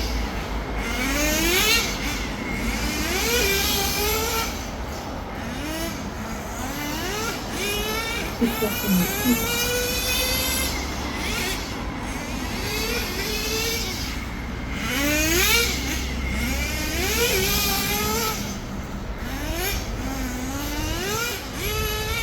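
Small nitro engine of a Kyosho V-One R4 RC touring car revving up and easing off over and over as the car laps. Its whine climbs in pitch with each burst of throttle, every two to three seconds.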